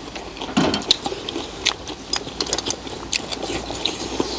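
Several people chewing food with their mouths full, with many small wet clicks and smacks.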